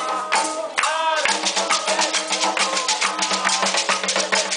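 Afro-Brazilian ritual music for Xangô: voices singing a chant over drums and rattling percussion. About a second in, the percussion settles into a fast, even beat.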